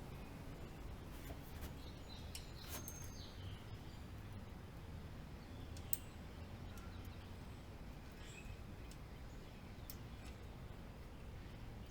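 Scattered small sharp clicks and ticks of hand tools on bicycle parts during disassembly, over a low steady background rumble, with a few faint chirps.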